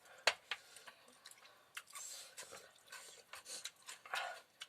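Close-up wet chewing and lip-smacking of someone eating, a run of irregular moist clicks and smacks, the sharpest about a quarter of a second in.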